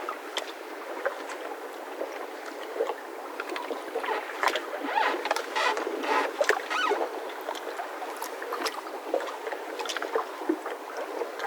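Mooring ropes on moored boats creaking and squeaking as the boats shift, in irregular short creaks over a steady hiss.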